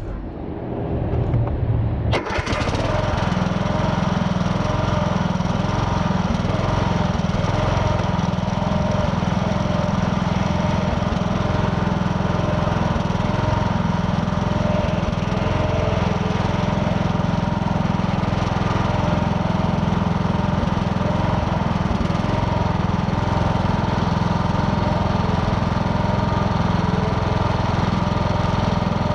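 Riding lawn mower's engine running steadily under load while mowing, after a sharp click about two seconds in.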